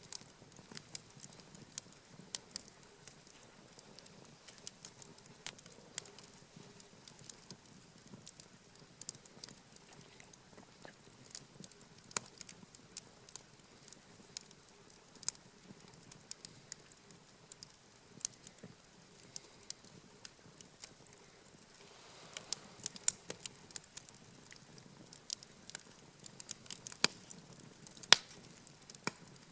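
Wood campfire crackling: irregular sharp pops and snaps, coming more thickly in the last third.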